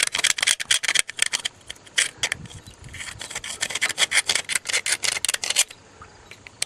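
Rapid back-and-forth scrubbing strokes on the cast-iron engine block, about five a second, cleaning the casting to read its date code. The strokes pause briefly a little after two seconds and stop about a second before the end.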